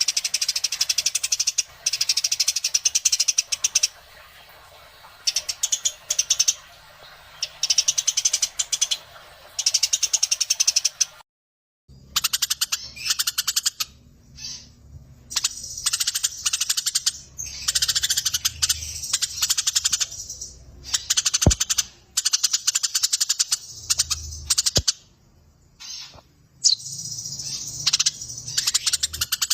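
Eurasian tree sparrows chattering in long, rapid rolling runs of chirps, burst after burst with short gaps: the excited chatter of sparrows fighting. The sound cuts out completely for about half a second a little before halfway, and two sharp clicks come in the second half.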